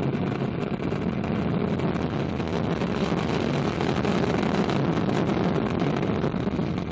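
Ariane 5 rocket lifting off, its Vulcain main engine and two solid rocket boosters giving a steady, dense low rumble.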